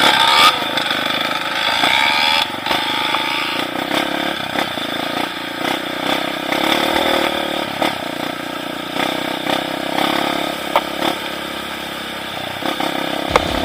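Off-road trail motorcycle engine running while riding, steady, with a few short knocks near the end.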